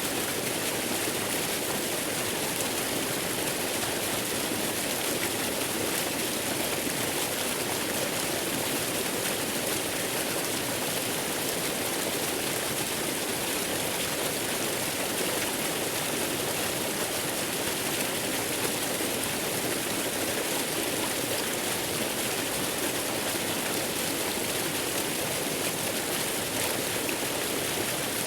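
Waterfall rushing steadily, mixed with an even hiss of white noise, unchanging throughout.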